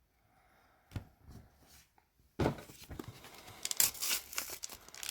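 Foil wrapper of a Pokémon TCG booster pack being handled and torn open. There is a single knock about a second in, then crinkling and tearing from about two and a half seconds in.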